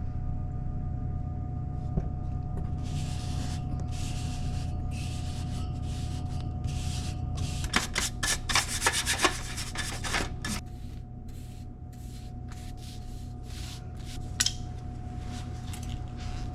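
Scraping, rubbing and clicking as a cover is taken off an indoor HVAC unit to get at its coils, over a steady hum with a faint whine. The scraping comes in bursts for the first two thirds, then thins to occasional clicks.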